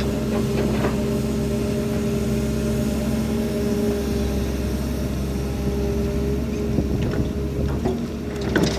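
Diesel engine of heavy construction machinery running steadily at a constant pitch, with a few light knocks in the last couple of seconds.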